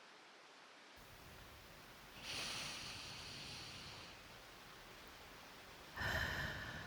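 Two breathy sighs close to the microphone, one about two seconds in and a louder, shorter one about six seconds in, over a faint steady hiss.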